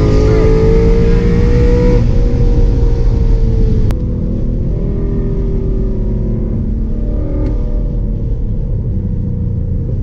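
2018 Camaro ZL1 1LE's supercharged 6.2-litre V8 running hard at high revs, its pitch climbing for about two seconds. A sharp click comes about four seconds in, and the engine drops to a quieter, lower note.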